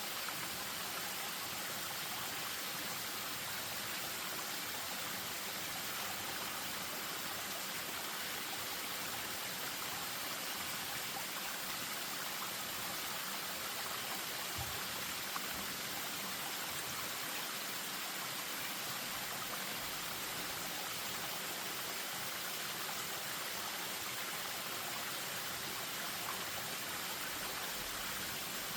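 Spring-fed stream running over a small waterfall: a steady, even rush of water with no change in level.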